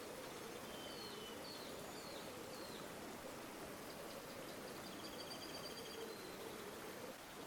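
River water flowing steadily, a faint even rush. A small songbird gives a few short high chirps about a second in and a quick high trill about halfway through.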